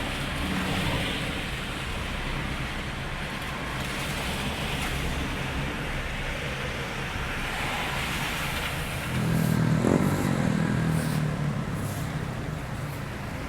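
Traffic on a flooded street: a steady wash of vehicle and water noise, with one vehicle's engine passing close about nine seconds in, the loudest moment.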